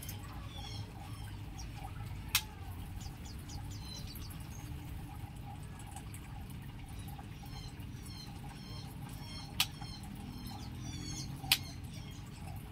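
Many small aviary birds chirping continuously in short, high calls. Three sharp clicks stand out as the loudest sounds, at about two and a half, nine and a half and eleven and a half seconds in.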